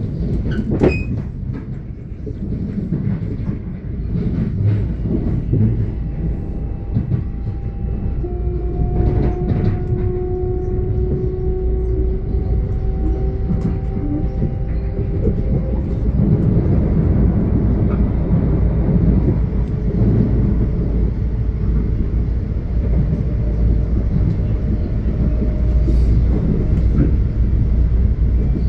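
Long Island Rail Road train running past on the track: a continuous low rumble that grows louder about halfway through, with faint steady whining tones in the middle stretch.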